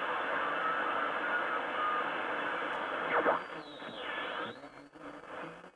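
Grundig Satellit 3400 shortwave receiver tuned across the band: hiss and static from its loudspeaker with short whistling tones, a brief louder burst about three seconds in, then the noise drops away with faint gliding whistles as it tunes between stations.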